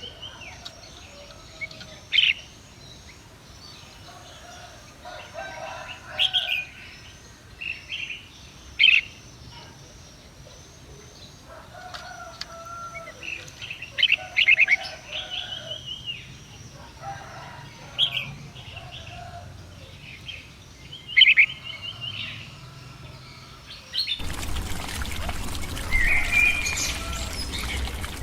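Small birds chirping and calling repeatedly, with short, sharp loud calls every few seconds. About 24 seconds in, a steady rushing noise suddenly joins in under the calls.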